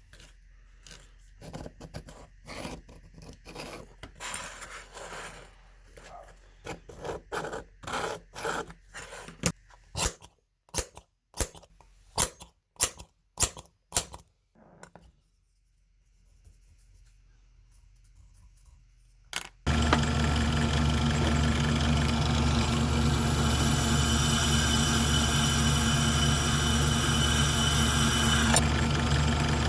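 Hand scraping and rubbing on a steel blade, with a run of sharp clicks about twice a second. About twenty seconds in, a power tool's electric motor starts abruptly and runs steadily with a hum.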